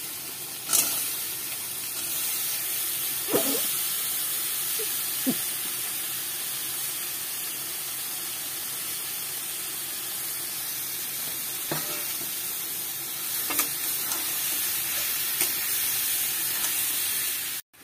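Spice paste sizzling in hot oil in an aluminium kadai as boiled green jackfruit and potato pieces are fried and stirred in. A steady frying hiss, with a few short knocks of the metal spatula against the pan.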